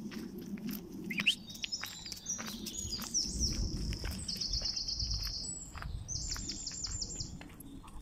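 A songbird singing one long song of quick high notes that runs into rapid trills, starting about a second in and stopping near the end, over the clicks of footsteps on a woodland path.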